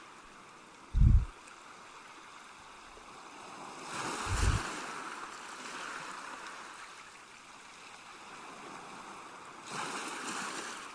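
Soft, steady rushing noise like flowing water or surf, swelling twice. There is a short low thump about a second in.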